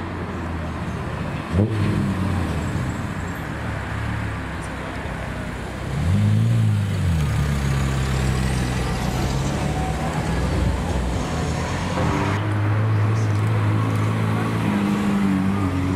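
Supercar engines running at idle, with a quick sharp throttle blip about a second and a half in and a longer rev that rises and falls about six seconds in; the engine note steps up again near twelve seconds.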